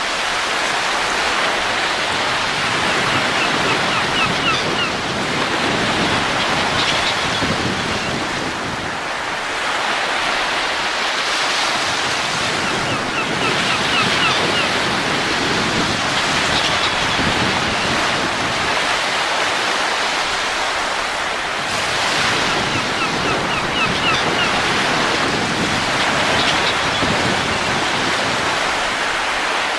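Steady rushing wind that swells and eases in slow gusts. A few faint, short high chirps come back about every ten seconds.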